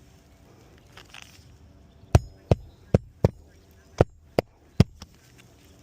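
A hammer driving roofing nails into an asphalt shingle: seven sharp blows in quick succession, starting about two seconds in and ending near five seconds.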